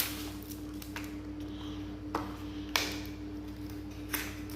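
A few separate light clicks and taps of small plastic cosmetic packaging being handled, over a steady low hum.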